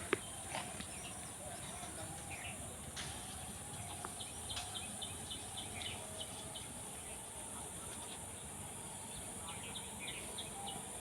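Quiet outdoor background: small birds give runs of short, high chirps over a steady high insect hiss.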